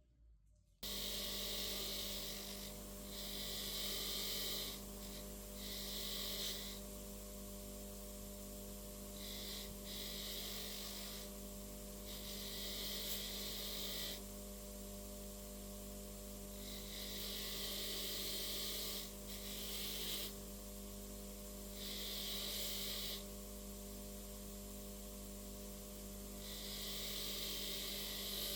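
A steady machine hum with a hissing noise that starts and stops every few seconds.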